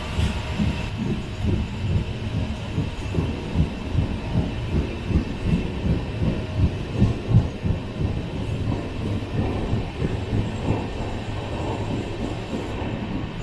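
LHB passenger coach of an express train running along the track: a steady low rumble with repeated low knocks of the wheels over the rails, about two a second.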